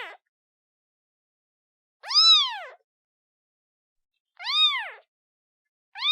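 Newborn kitten mewing for its mother: three short, high-pitched mews about two seconds apart, each rising and then falling in pitch.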